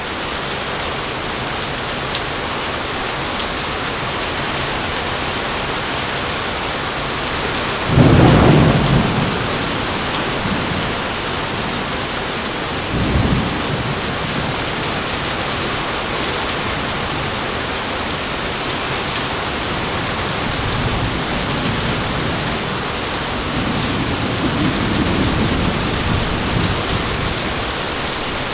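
Heavy rain pouring steadily, with a sharp thunderclap about eight seconds in, a smaller one about five seconds later, and softer rumbles of thunder near the end.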